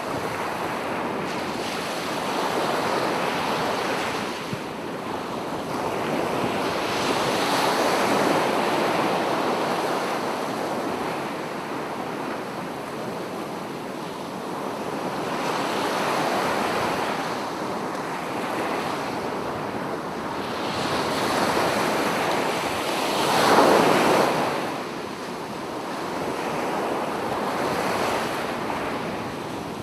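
Sea waves breaking and washing up the shore in slow surges that swell and fade every few seconds, with one louder break about three-quarters of the way through.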